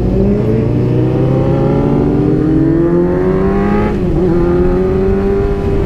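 Motorcycle engine under way, its pitch rising steadily as it accelerates, with a brief dip in revs about four seconds in before it pulls up again.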